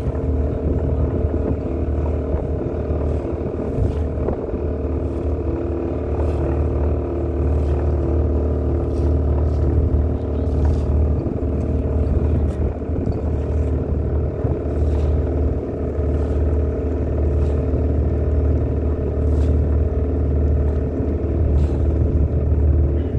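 Tour boat's engine running steadily with a low drone.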